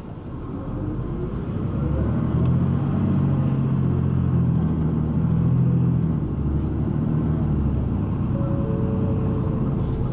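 Route bus engine heard from inside the cabin, pulling away: its pitch and loudness climb over the first two seconds, then it runs steadily under load.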